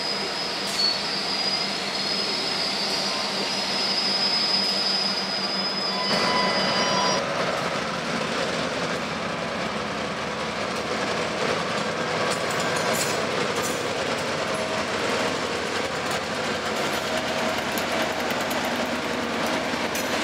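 Diesel-hauled freight train of log cars rolling slowly past at close range. For the first seven seconds or so the wheels squeal high and thin through the curve and switches. Then the locomotives' diesel engines grow louder as they come alongside, with the clatter of wheels over the rail joints and switch frogs.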